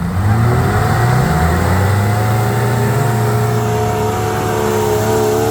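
Motocross bike engine revving up in the first second, then running steadily at high revs.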